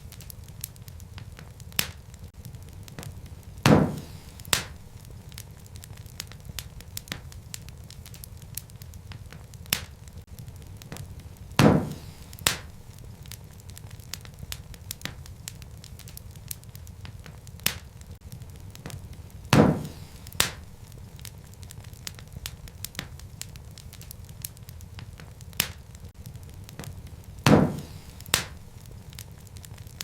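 Wood fire burning in a fireplace: a steady low rumble with constant light crackling of burning logs. Four louder sharp pops come at even intervals about eight seconds apart, each followed by a smaller pop under a second later.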